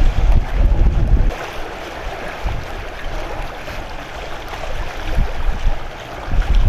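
Wind buffeting the microphone in gusts over a steady rushing noise; the gusts are heavy for the first second or so and return near the end.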